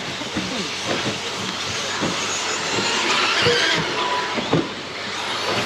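Electric off-road RC trucks racing, their brushless motors whining as they run the track, with a few sharp knocks scattered through.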